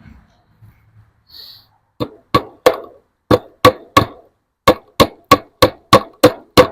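Hammer blows, thirteen sharp strikes in three runs (three, three, then seven at about three a second), each ringing briefly: staples being hammered in to attach the fence.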